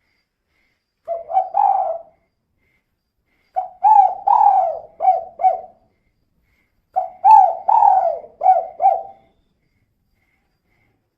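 Spotted dove cooing: three phrases of low, hollow coos, a short one followed by two longer phrases of about five notes each. It is the 'kuk 2' call type, which the uploader attributes to a female bird.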